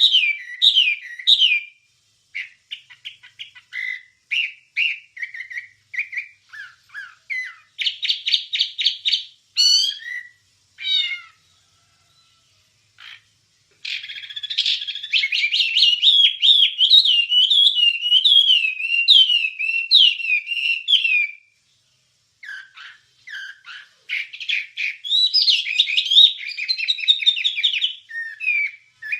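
A wambie songbird singing high-pitched, fast chattering and trilled phrases mixed with gliding whistles, in long bursts broken by brief pauses about halfway and again two-thirds through.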